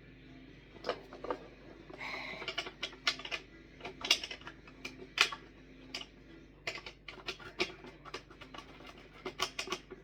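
Irregular sharp clicks and taps of hard plastic vacuum-cleaner parts being handled and pushed into place. The parts are the dust bin and filter frame of a Miele Blizzard CX1. The clicks come in uneven clusters and are densest near the end.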